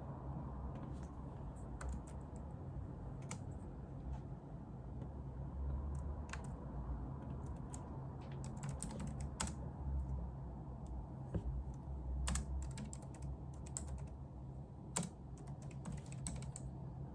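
Typing on a computer keyboard: irregular runs of key clicks, busiest in the second half, over a steady low hum.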